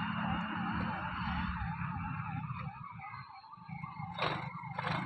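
Warbling siren rising and falling about four times a second, over a steady low engine-like hum, with two sharp knocks near the end.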